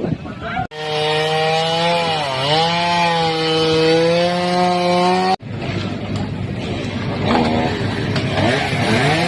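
Chainsaw running at high revs, cutting into the trunk of a fallen tree. Its pitch dips as it bogs under load about two seconds in. The sound breaks off abruptly twice and picks up again.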